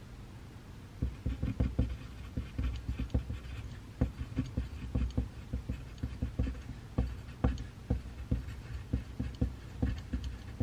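Pencil writing on paper over a desk: a quick run of short strokes and taps starting about a second in.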